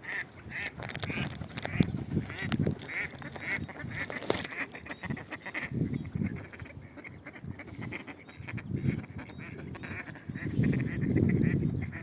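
Waterfowl calling: a run of short, evenly repeated calls through the first half, thinning out after that, with a low rumble near the end.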